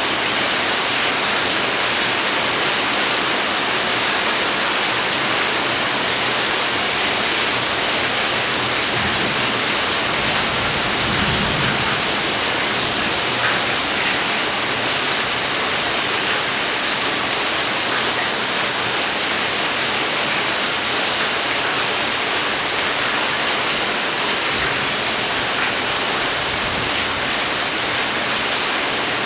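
Steady rain, an even hiss with no letup.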